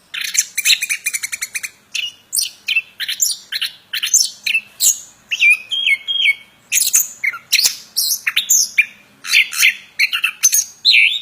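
A songbird kept as a 'plontang' singing in full voice: a dense, unbroken string of sharp chirps, rapid trills and whistled notes that jump up and down in pitch.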